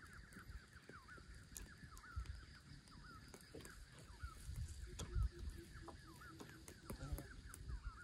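Faint, continuous series of short honking calls from birds, several a second and overlapping, with scattered light ticks and low thumps.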